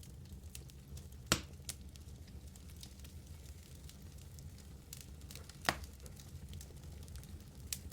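Wood fire burning in a fireplace: a low steady rumble of the flames with scattered soft crackles and two sharp pops from the burning logs, about four seconds apart.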